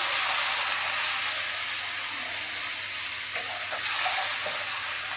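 Cubed chicken sizzling in oil and soy sauce in a nonstick wok, a steady hiss, while a wooden spatula stirs it.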